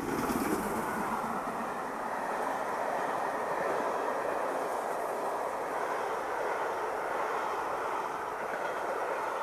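LMS Princess Coronation class steam locomotive 46233 Duchess of Sutherland passing through at full speed: it arrives suddenly and loud, then the train runs past with a steady heavy rushing rattle of wheels on rail for about nine seconds before starting to fade.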